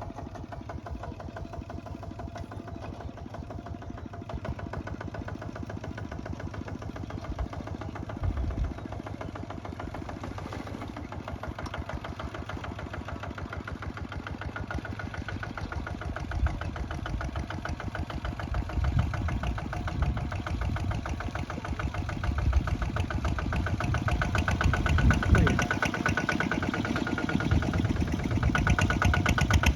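Kubota ZT155 single-cylinder diesel engine running with a fast, even firing beat, growing louder toward the end, with a few heavier low surges along the way.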